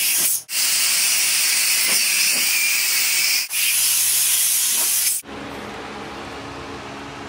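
Loud hiss of a compressed-air tool in long bursts of two to three seconds, each cutting off sharply. About five seconds in it gives way to a quieter steady machine hum.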